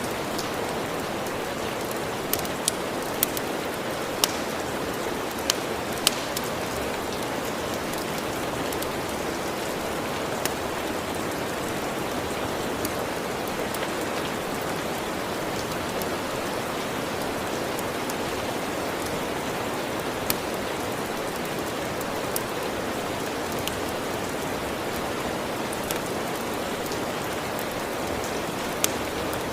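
Steady rain falling, with sharp crackles and pops from a wood fire scattered through it, several close together in the first few seconds and only a few after.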